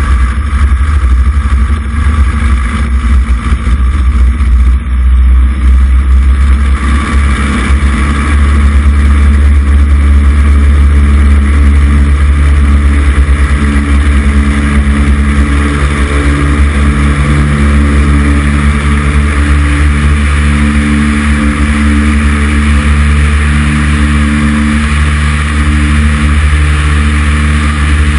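Cessna 140 light aircraft's piston engine and propeller running, a loud continuous drone that is uneven for the first several seconds and then holds steady.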